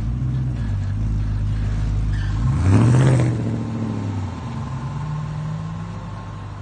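BMW 645Ci's 4.4-litre V8 running with its muffler deleted, the exhaust rising to its loudest for about a second around three seconds in, then easing back to a steady drone.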